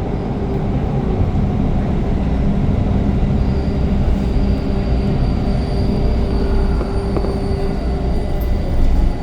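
Toronto subway train heard from inside the car as it pulls into a station: steady running rumble with a low hum, and a thin high whine that sets in about a third of the way through.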